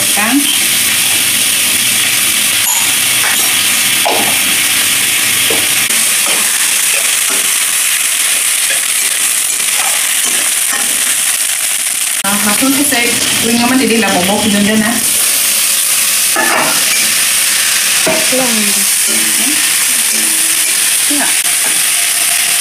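Sliced onions and a bay leaf frying in hot oil in a steel wok, with a steady high sizzle. A spatula stirs and scrapes against the pan, giving occasional light clicks.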